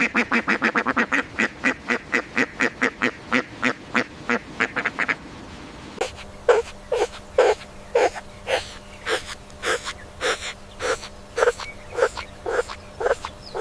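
An animal calling in short repeated calls, quickly at first, about four a second. About six seconds in there is a cut to a slower series of calls, about two a second.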